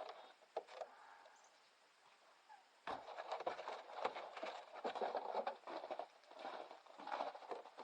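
Dogs moving close by, their paws pattering and shuffling in quick irregular steps that start about three seconds in.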